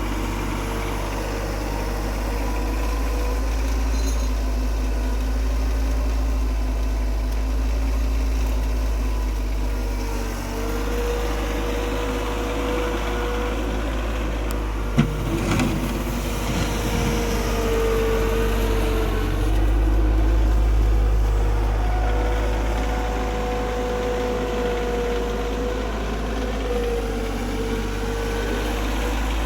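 An engine running steadily under light load, its pitch drifting slightly up and down, with one sharp knock about halfway through.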